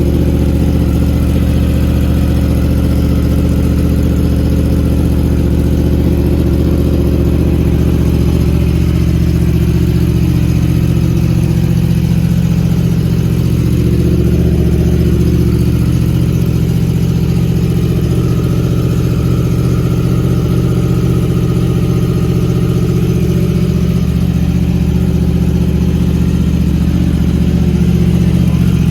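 An engine running steadily with a low, even hum and little change in speed.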